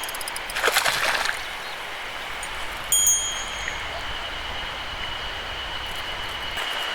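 Mountain stream running steadily. A small metal bell is struck sharply about three seconds in, and its high tone rings on, with a short clatter about a second in.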